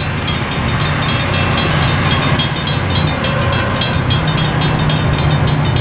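Diesel locomotives of a freight train running as the train approaches, a steady low engine drone with rail and wheel noise over it.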